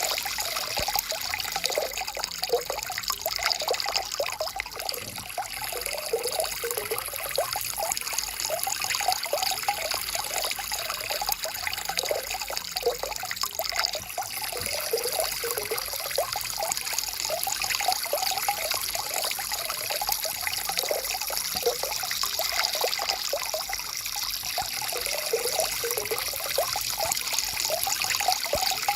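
Forest stream flowing and trickling over stones, a steady babble of bubbling water with a bright hiss.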